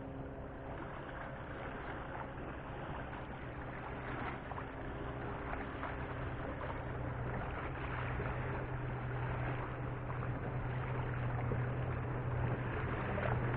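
Boat engine droning with a steady low hum that grows gradually louder, over a wash of water and wind noise.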